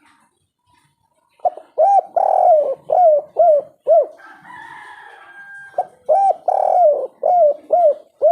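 Spotted dove singing its 'kuk 3' coo song, two phrases of about six coos each. Each phrase has a short note, longer drawn-out coos, then a run of three quick clipped 'kuk' notes at the end. A fainter drawn-out call sounds in the gap between the phrases.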